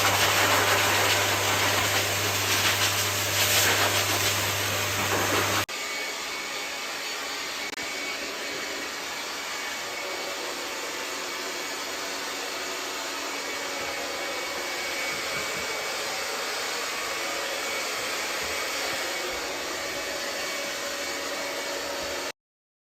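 Dog blow dryer blowing air through a Siberian husky's coat: a loud, steady rush with a low hum, which drops suddenly after about six seconds to a quieter steady whir.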